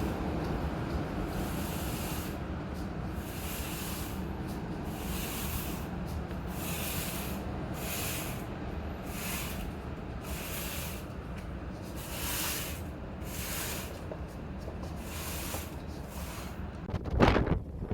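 Strong storm wind blowing: a steady rush with a higher hiss swelling and fading roughly once a second. Near the end a gust hits the phone's microphone with a loud buffeting rumble.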